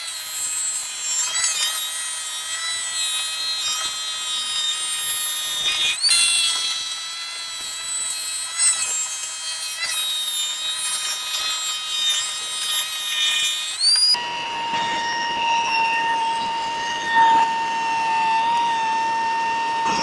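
A woodworking power tool's motor running with a steady high whine, rising in pitch about six seconds in. About fourteen seconds in it switches abruptly to a different, lower steady whine.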